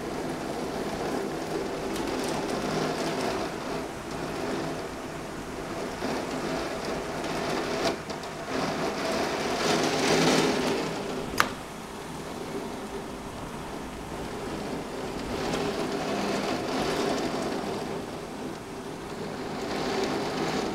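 Heavy thunderstorm rain driven against a window pane, with steady pelting that swells and eases in several waves as strong wind gusts push it. A single sharp tap on the glass comes about eleven seconds in.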